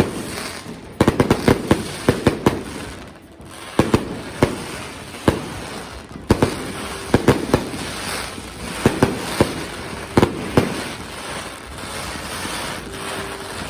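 Fireworks going off in quick volleys of sharp bangs over a steady crackling haze. The bangs thin out over the last few seconds.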